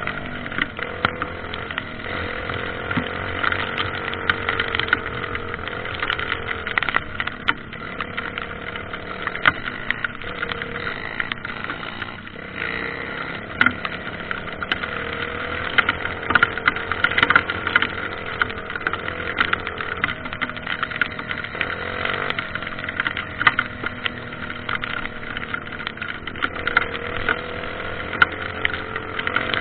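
Dirt bike engine running on a trail, its pitch rising and falling with the throttle, with frequent sharp clicks and knocks throughout.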